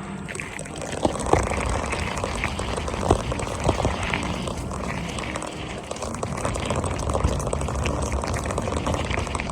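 Full-suspension mountain bike rolling along a trail: steady tyre and wind rush, with scattered knocks and rattles from trail bumps.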